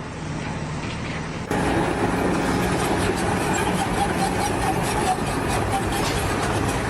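Engine-driven machinery running steadily with a low hum; the sound changes abruptly and gets louder about a second and a half in.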